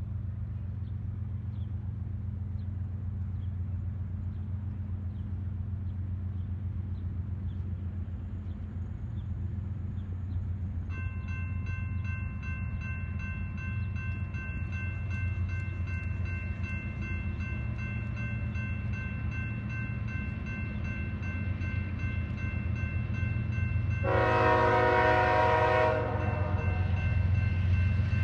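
BNSF freight train approaching with its diesel locomotive rumbling low throughout. Partway through a bell starts ringing rapidly and steadily, and near the end the locomotive's air horn sounds one blast of about two seconds, the loudest sound.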